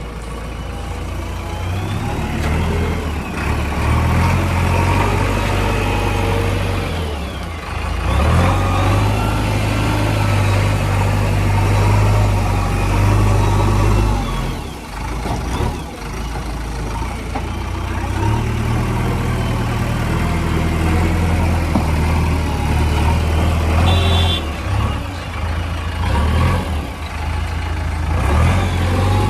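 Heavy diesel engines working under load, a strong low drone that swells and eases as they rev, dropping back briefly a quarter of the way in and again near the middle.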